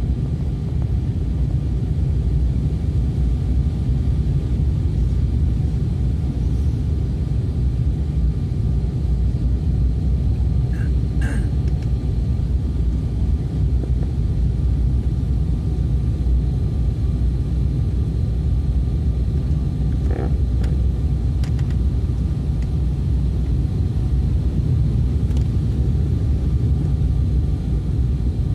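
Airliner cabin noise during the descent to landing: a steady low rumble of engines and airflow with a faint steady whine, and a couple of faint clicks.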